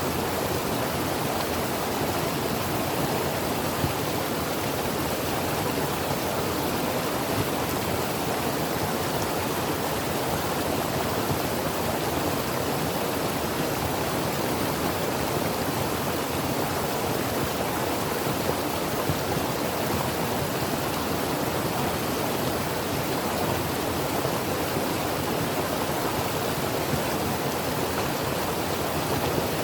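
Creek water flowing and babbling in a steady, even rush.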